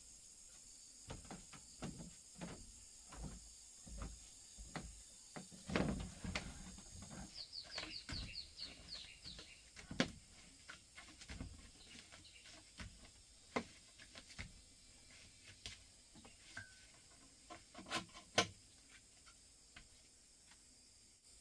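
Irregular knocks and taps, the loudest a few sharp ones near the end, over a steady high insect drone, with a quick run of about eight chirps from a bird about eight seconds in.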